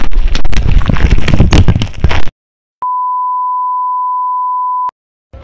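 A steady electronic beep, a pure tone of about 1 kHz, lasting about two seconds. It is set between stretches of dead digital silence, as an edited-in bleep or test tone. Before it, for the first two seconds or so, a loud noisy sound of unclear source cuts off abruptly.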